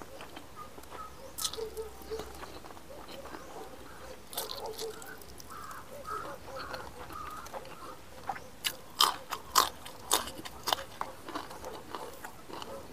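A man chewing and biting a mouthful of rice and meat eaten by hand, very close to a clip-on microphone: wet mouth clicks and crunches, coming thick and loud from about eight and a half to eleven seconds in.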